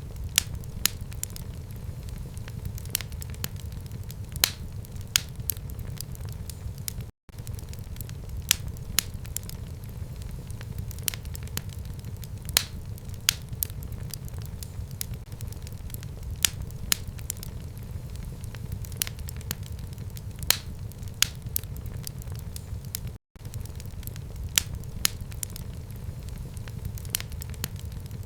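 Fire burning in a home fireplace, crackling with irregular sharp pops over a steady low rumble. The sound cuts out completely for an instant twice.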